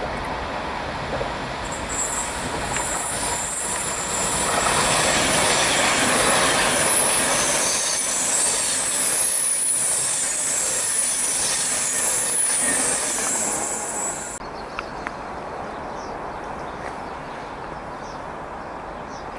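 Class 390 Pendolino electric train running along the platform: a loud rush of wheels on rail that swells as the train passes, with a high-pitched squeal above it. About fourteen seconds in, the sound cuts abruptly to a quieter, steady rumble as a Class 350 electric multiple unit approaches.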